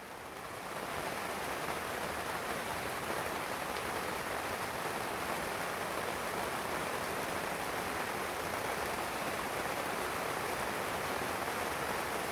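A steady, even hiss like rain or sizzling, swelling about a second in and then holding level.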